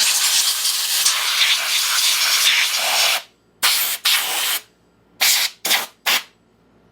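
Compressed-air blow gun blasting debris off a lawn mower: one long hiss of about three seconds, then four short bursts of air. The air is not clearing the caked-on dirt.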